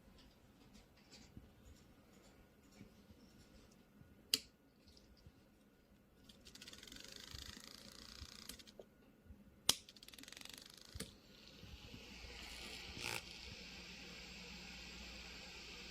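Sharp clicks of a push button, a few times, and a small Arduino-driven DC fan motor whirring in spells between them. The fan runs steadily through the last few seconds.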